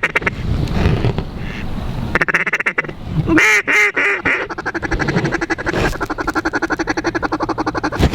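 Duck calls blown to work mallards: a few loud quacks about three and a half seconds in, then a long, rapid run of short notes like a feeding chuckle.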